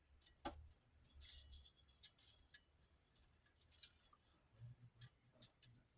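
Faint, scattered clicks and light taps of the small parts of an 8mm film viewer-editor being handled as film is threaded into its mechanism, with one sharper click about four seconds in.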